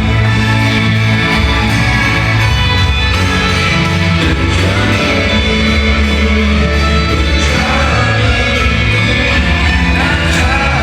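Live rock band music with singing, loud and continuous, as heard from the audience at a stadium concert.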